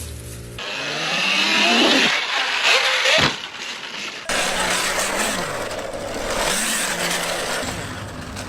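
Motorcycle engine running and revving, its pitch rising and falling, with road and wind noise; the sound changes abruptly twice, about half a second in and about four seconds in.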